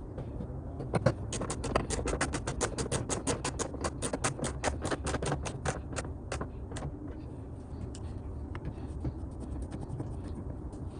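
A fast, even run of sharp clicks, about seven a second, starting about a second in and stopping about six seconds later, over a steady low rumble.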